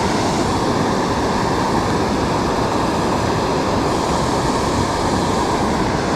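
Waterfall's falling water rushing loudly and steadily, without a break.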